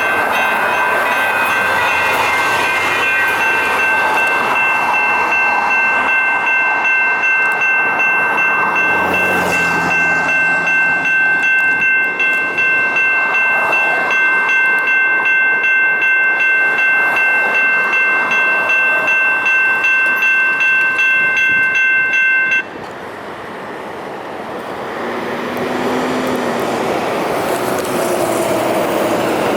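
Railroad crossing warning bell ringing in a fast steady pulse as a light rail train passes, with rail noise underneath; the bell cuts off abruptly about 23 seconds in, leaving the sound of the passing train.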